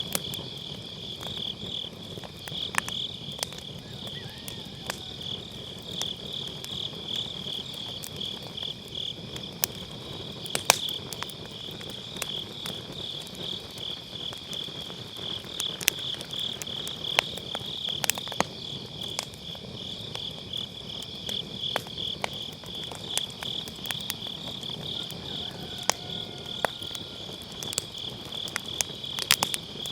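Autumn night grass insects chirping in a steady, pulsing chorus, over firewood crackling with sharp, scattered pops; one pop about a third of the way in is the loudest.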